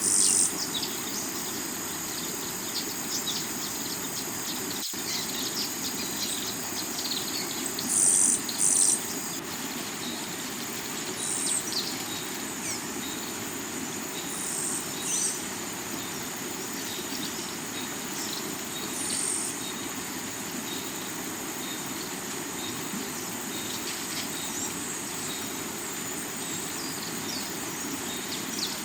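A rocky river flowing steadily under a forest soundscape of chirping birds and a constant high insect drone. Short, loud, very high calls recur every few seconds; the loudest pair comes about eight seconds in.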